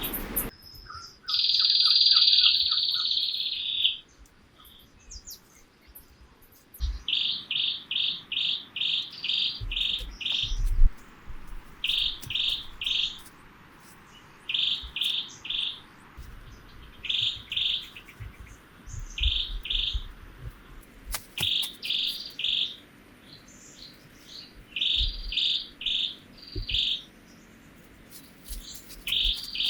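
A bird calling in runs of short, rapid notes, two to seven at a time with pauses between. Near the start there is a louder buzzing trill of about three seconds, and faint low thumps come now and then.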